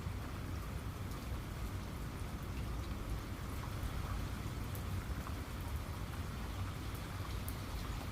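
Steady rain falling, with scattered sharp ticks of single raindrops striking a surface.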